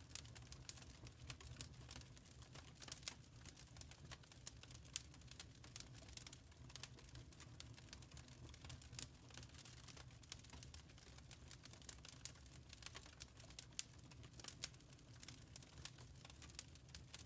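Wood fire crackling softly in a fireplace: irregular small pops and snaps over a low, steady rumble.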